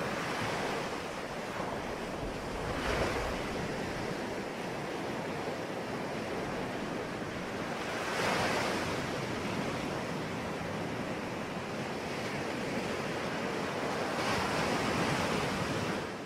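Sea waves: steady surf with a wave breaking about every five to six seconds, three in all, then cut off abruptly at the very end.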